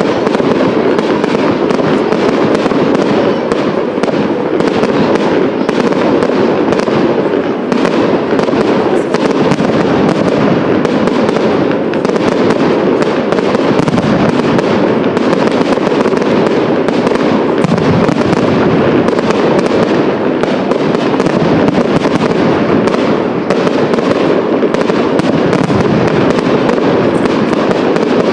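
Professional fireworks display: a dense, continuous crackling and popping of many small bursts, with no pause.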